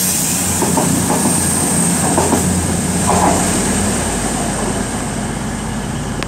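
Cross Country Class 221 Voyager diesel trains running in the station: a steady low engine hum with a high hiss above it, and a few light clicks.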